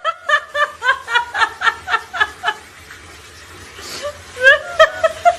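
High-pitched laughter: a quick even run of short 'ha' pulses for about two and a half seconds. After a short lull, a few more drawn-out voice sounds come near the end.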